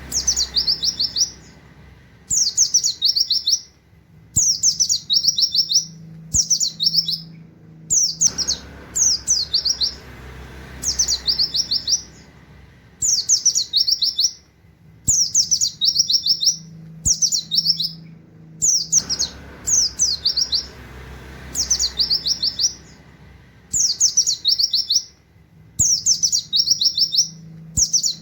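A white-eye (pleci) singing its fast 'nembak' song: high phrases of rapid down-slurred notes, each about a second long, repeated every second or two with short pauses between.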